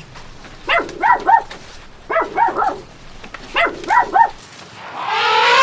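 A dog barking in quick groups of two or three short, high yelps, one group roughly every second and a half. Near the end a loud, steady tone with many overtones swells in, rising briefly and then holding.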